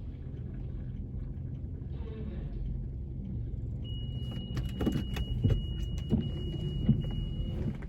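Subaru Legacy's flat-four engine idling, heard from inside the closed cabin as a steady low rumble. A few light knocks and clicks come in the second half, over a steady high tone that holds for about three and a half seconds.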